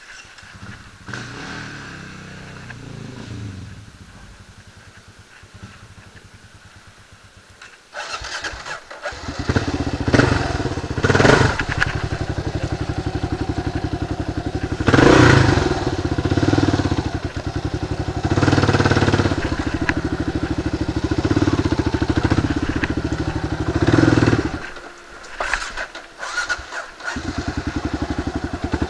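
Kawasaki KLR 650's single-cylinder four-stroke engine running, faint at first. About eight seconds in it gets much louder under throttle, with several brief louder surges. It drops away for a couple of seconds near the end and then picks up again.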